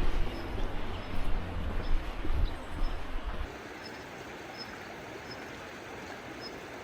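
Motorcycle on the move: a steady low rumble with rushing noise. About halfway through it cuts off suddenly to a quieter, even hiss.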